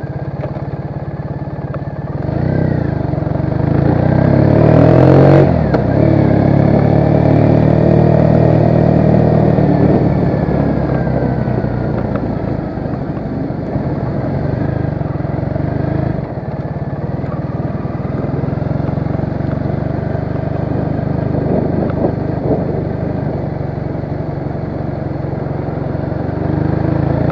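Triumph Bonneville parallel-twin motorcycle engine on the move: it accelerates, rising in pitch from about two seconds in, with a short break about five seconds in, then runs steadily at a cruise.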